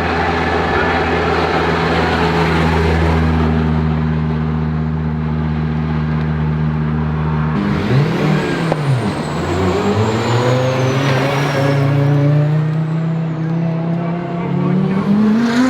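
A rally car engine runs at a steady note. About halfway through its pitch dips and recovers, then climbs steadily as it accelerates, with a high whistle gliding down for a few seconds.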